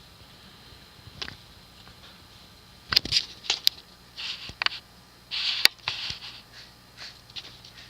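Handling noises: a few sharp clicks and short rustles, the loudest clustered between about three and six seconds in, with a faint low hum starting about three seconds in.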